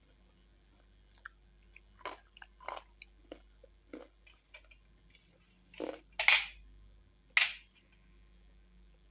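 A person biting and chewing slate pencils: a run of short, crisp crunches, with three louder bites in the second half.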